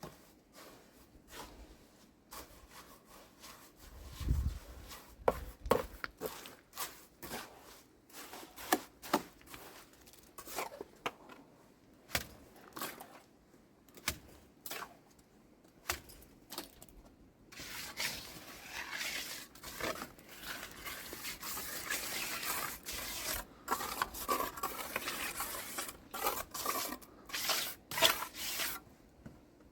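Scattered knocks and taps, then from a little past halfway a busy stretch of rubbing and scraping.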